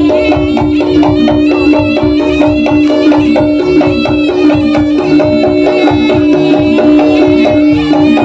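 Live Javanese jaranan ensemble music playing without singing: fast, even drum strokes over a steady held note.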